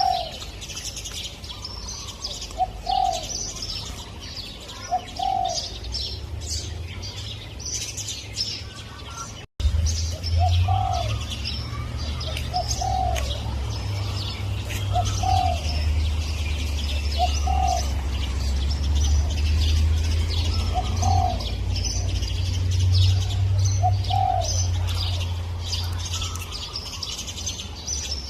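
Spotted dove cooing, a short low call repeated every two to three seconds, about nine times. Other small birds chirp at a much higher pitch throughout, over a low rumble, and the sound cuts out for an instant about a third of the way through.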